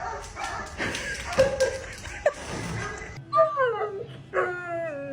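A dog howls and whines in two drawn-out calls that slide down in pitch. The second is longer and sinks lower. Before the dog, music and other sound from a TV play, then cut off abruptly about three seconds in.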